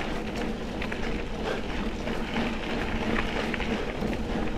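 Mountain bike riding along a trail: steady rolling and wind noise with a low hum and scattered small clicks and rattles.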